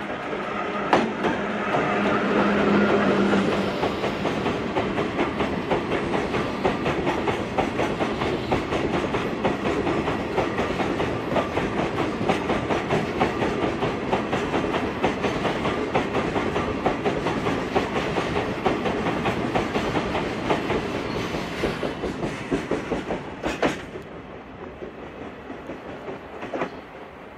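Limestone freight train running past, its long string of wagons clattering over the rail joints in a rapid, steady stream of clicks, with a low steady hum in the first few seconds. The clatter fades away near the end.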